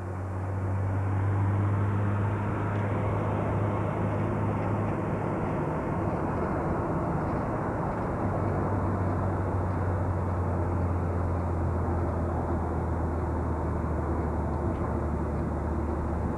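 Steady engine and road noise heard from inside a moving car: a constant low hum with an even rush of tyre noise.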